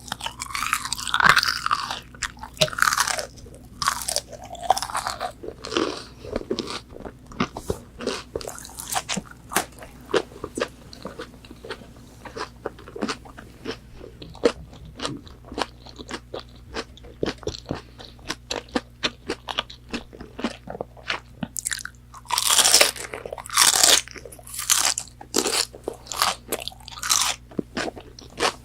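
Close-miked chewing of crispy McDonald's chicken nuggets: rapid wet crunching, with loud crunchy bites at the start and again about 22 seconds in.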